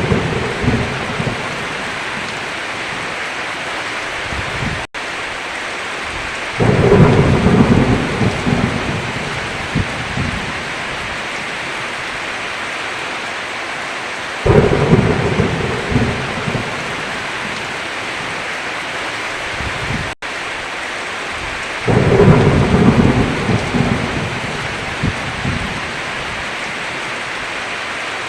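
Heavy rain falling steadily, with three claps of thunder, each starting sharply and rumbling off over a few seconds, about seven or eight seconds apart. The sound cuts out for an instant twice.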